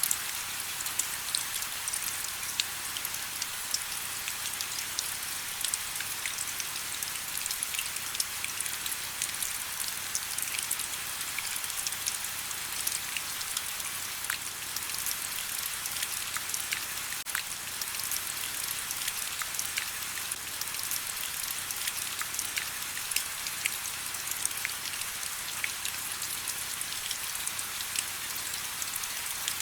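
Steady rain falling, with the close patter of individual drops hitting surfaces.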